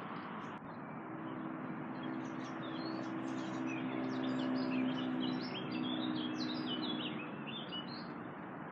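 A small bird singing a rapid string of high chirps over a steady background rumble, with a low steady hum joining about a second in and fading out near the end.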